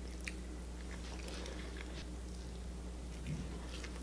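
A person chewing a mouthful of bowtie pasta in cream sauce, with scattered faint mouth clicks, over a steady low electrical hum.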